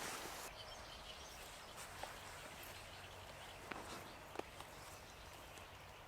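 Quiet forest ambience with faint bird chirps and a few scattered light clicks or crunches.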